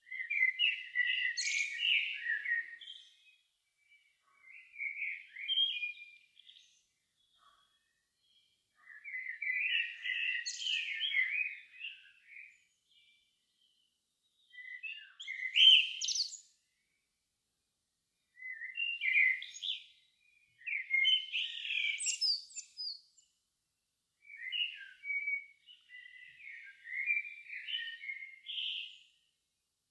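Songbird singing in short, varied warbled phrases of two to three seconds each, separated by brief pauses of near silence; the phrases around the middle and about two-thirds of the way through are the loudest.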